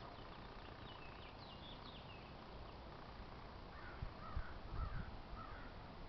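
Birds calling: thin high chirps over the first couple of seconds, then a run of lower, harsher calls about four seconds in. A few low bumps of wind or handling on the microphone come with the later calls.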